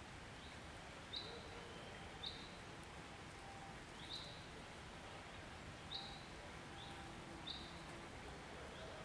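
A bird calling with short, high chirps repeated at irregular intervals of a second or two, five of them louder than the rest, over a steady background hiss.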